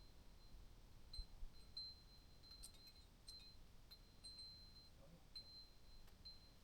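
Near silence: a faint, thin high-pitched tone that keeps breaking off and coming back, with a few faint ticks.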